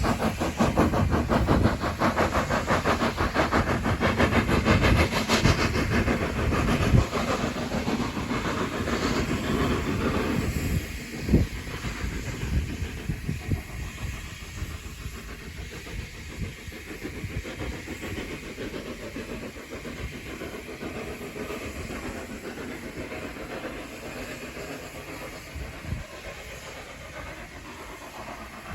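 Steam train running by, loud and rapidly pulsing for about ten seconds, then falling away to a quieter steady hiss of steam, with a sharp knock about eleven seconds in.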